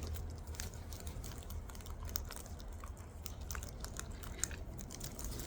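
Wild cockatoos crunching food in their beaks close by: a quick, irregular run of small cracks and clicks.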